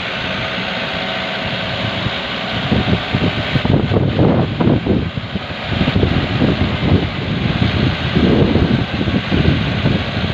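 Dump truck's diesel engine running steadily; from about three seconds in it turns into an uneven, heavier rumble that goes on to the end.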